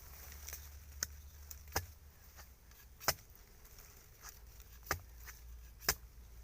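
Chopping with a blade: about five sharp blows at uneven intervals, cutting out wild bamboo shoots.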